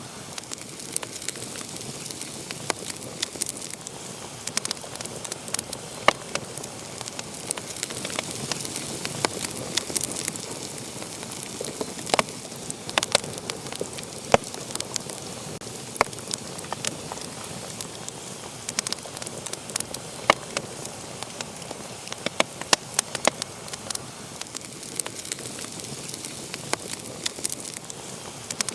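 Wood fire burning in a fireplace, crackling and popping at irregular moments over a steady hiss.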